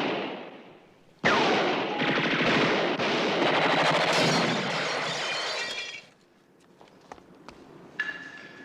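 A sudden loud crash about a second in, followed by several seconds of breaking glass and clattering debris that stops abruptly, then a few light knocks.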